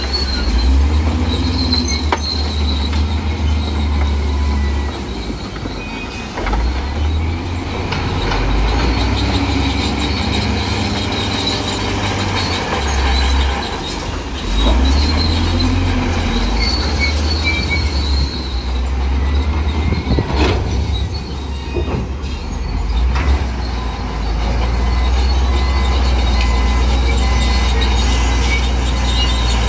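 Crawler bulldozer working, its diesel engine running and swelling and easing with the load. Its steel tracks squeal at a high pitch, on and off.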